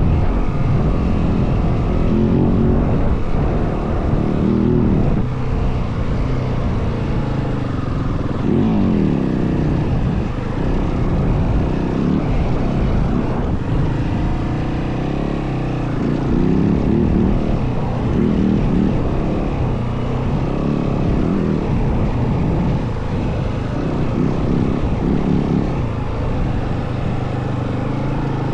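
Yamaha WR450F dirt bike's single-cylinder four-stroke engine being ridden, its revs rising and falling again and again.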